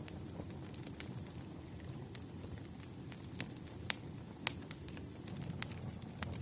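Wood fire crackling: irregular sharp pops and snaps, the loudest about four seconds in, over a low steady noise.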